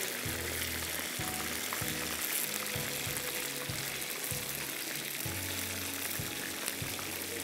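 Marinated chicken pieces sizzling steadily as they fry in oil in a nonstick frying pan, turned with a spatula. Soft background music plays underneath.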